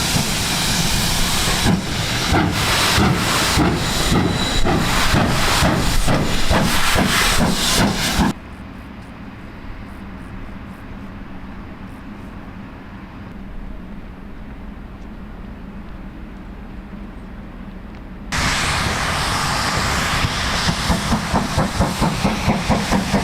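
Steam locomotive hissing and working, with sharp chuffs. About 8 seconds in the sound drops suddenly to a quieter low hum. About 18 seconds in it comes back loud with a fast, regular beat.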